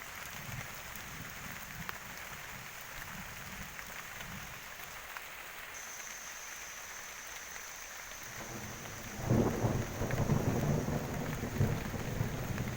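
Heavy rain falling steadily, then a loud roll of thunder rumbling in suddenly about two-thirds of the way through.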